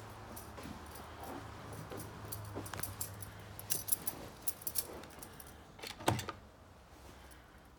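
Small metal objects jingling and clinking for a couple of seconds, ending in a single louder knock about six seconds in, over a faint low hum that fades away midway.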